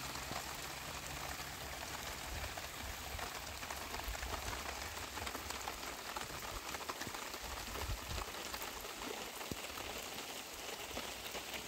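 Heavy rain falling, a steady hiss thick with many sharp individual drop hits.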